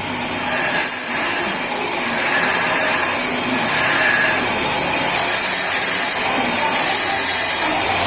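Guangzhou T807A cylinder boring machine running, its 250-watt electric motor and boring spindle making a steady whirring noise.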